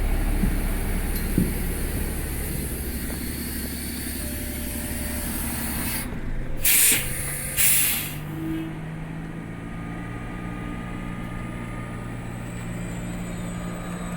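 City transit bus's air system giving two loud hisses of compressed air about six and seven and a half seconds in, as the bus stops. Beneath the hisses the diesel engine runs, settling to a steady idle afterwards.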